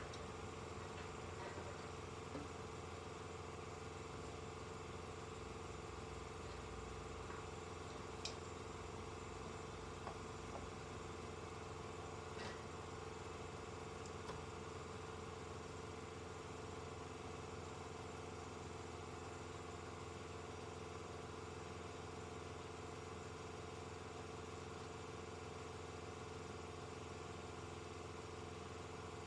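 A steady low mechanical hum, unchanging throughout, with a few faint clicks and taps about a third of the way in.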